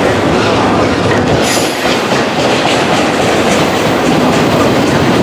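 Train passing at close range: a steady, loud rumble of railcars, with wheels clacking over rail joints.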